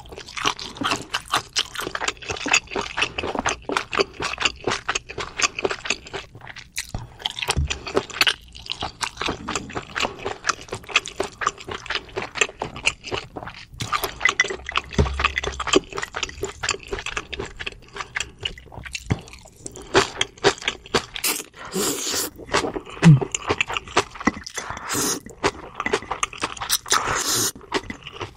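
Close-miked eating of spicy mixed noodles and rice: a dense, continuous run of wet chewing and smacking mouth sounds.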